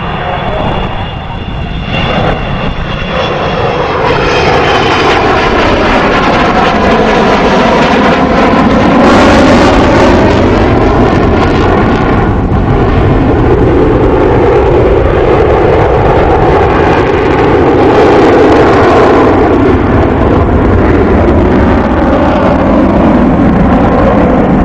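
Avro Vulcan bomber's four Rolls-Royce Olympus jet engines running loud as it flies by, the sound building over the first few seconds and then holding, with a steady rumble and tones that sweep down and back up as it passes.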